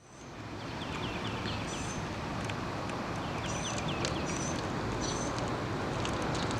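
Birds chirping over a steady background hiss: quick runs of about five short falling notes, twice, mixed with brief high whistles.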